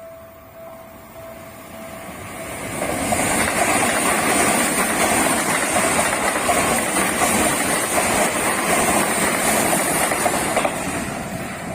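Electric commuter train passing a level crossing: a loud, even rush builds from about three seconds in and fades near the end. Before the train arrives, the crossing's warning bell rings in repeated dings.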